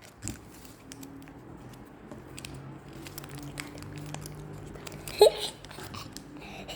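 Sheet of paper being folded and creased by hand: soft rustling and small crinkles, with a brief louder sound about five seconds in.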